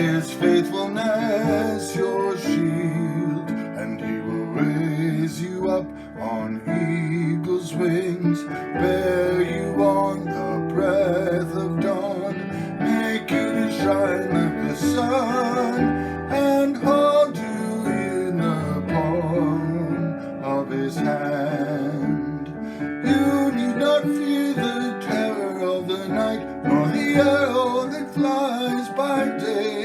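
A hymn played on strummed acoustic guitar, with a wavering melody line carried over the chords.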